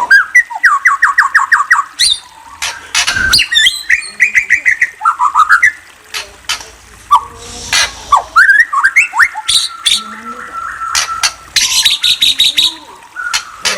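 A murai songbird singing a varied song: fast runs of repeated whistled notes, rising slurs and sharp clicking calls, phrase after phrase.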